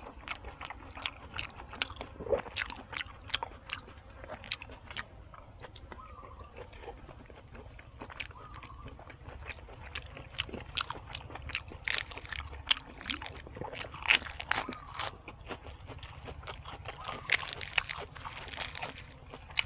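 Close-up eating sounds: repeated crisp crunching and wet chewing of food, at an irregular pace.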